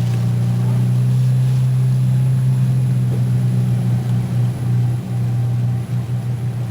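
Boat engine running steadily with a low hum, wavering slightly in level a few seconds in.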